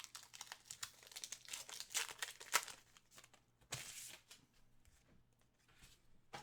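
Foil wrapper of a trading-card pack crinkling and being torn open by hand: a run of quick crackles with a longer tearing rasp about two-thirds of the way through, then fainter handling near the end.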